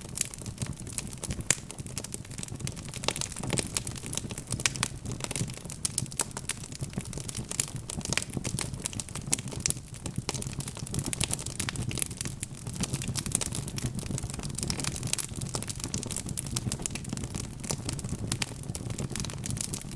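Wood fire burning in a fireplace, logs crackling and popping with many irregular sharp snaps over a steady low rumble of flame.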